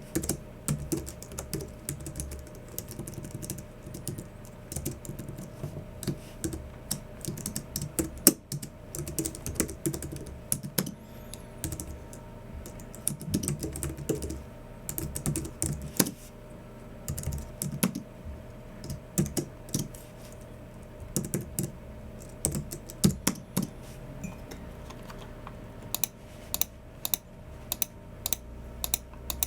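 Typing on a Logicool MX Keys Mini low-profile keyboard: quick, irregular runs of soft key clicks with short pauses between them, over a faint steady hum.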